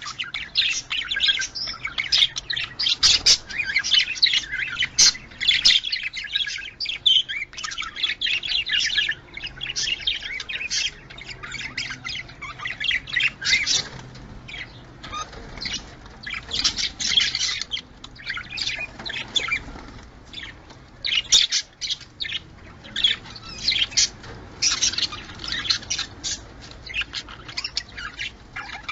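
Budgerigars chattering: a dense run of overlapping short chirps, warbles and squawks, with a brief lull about two-thirds of the way through.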